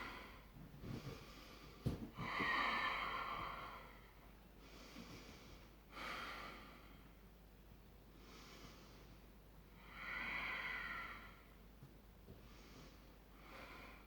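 A woman breathing audibly in slow, deep breaths during exercise, a breath every couple of seconds; the loudest come about two seconds in and about ten seconds in. A single sharp click comes just before the first loud breath.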